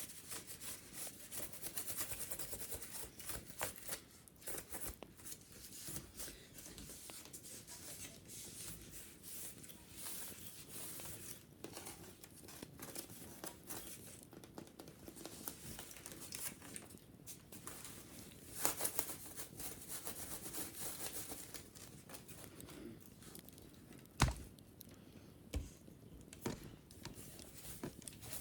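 Dry scratching and rustling on a wicker basket as it is cleaned, with scattered small taps and one sharper knock near the end.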